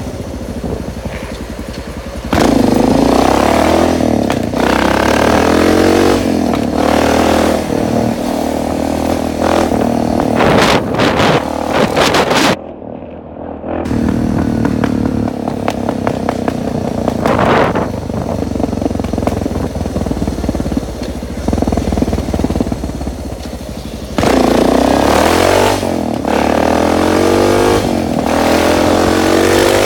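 Suzuki DR650 dirt bike's single-cylinder four-stroke engine running and revving, its pitch rising and falling again and again. The sound drops away briefly about halfway through, then picks up again.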